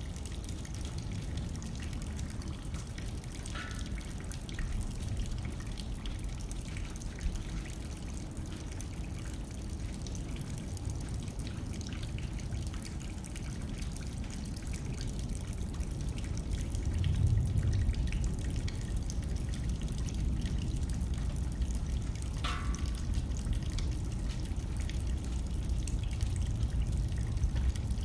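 Rain hitting a window with a light wind blowing, the low wind rumble swelling a little over half-way through. Two brief, clearer drips stand out, one early and one near the end.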